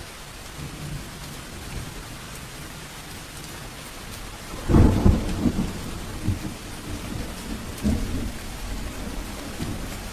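Steady rain falling, with a thunderclap breaking in about halfway and rumbling on in a few weaker rolls for some seconds.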